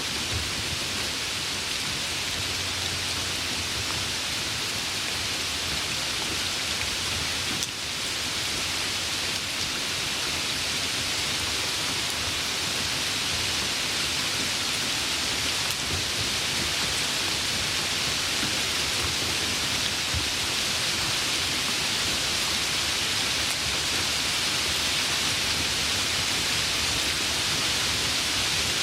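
Steady rain falling, an even hiss of rainfall.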